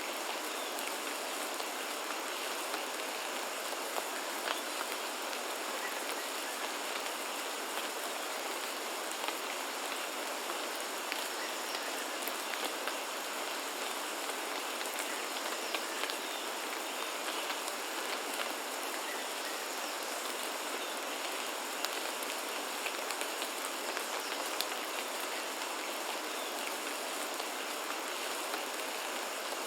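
Steady rain falling, with many separate drops ticking sharply on surfaces. A faint steady high tone runs underneath.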